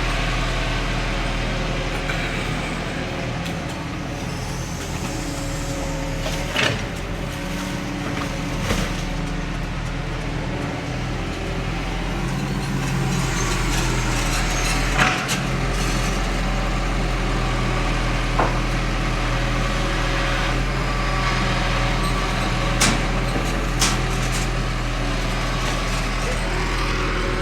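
Heavy diesel engine of earthmoving machinery running steadily at a constant low throttle, with a handful of short sharp knocks scattered through it.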